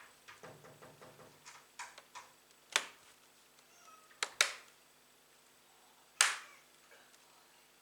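Hands working on a laptop: light tapping and handling noise, then four sharp clicks or snaps, two of them close together in the middle.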